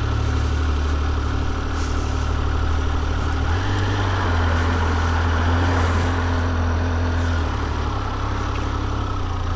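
Triumph Speed Triple 1200 RR's inline three-cylinder engine running steadily on the move, its low note stepping up about three and a half seconds in and dropping back about two seconds before the end.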